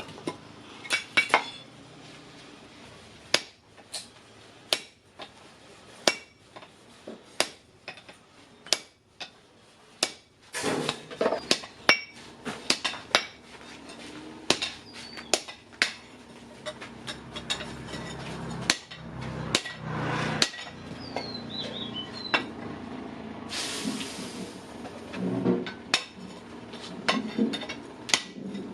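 Hand hammer blows on steel from a truck leaf spring, irregular single strikes about a second apart, each with a short metallic ring. A brief hiss comes about two-thirds of the way through.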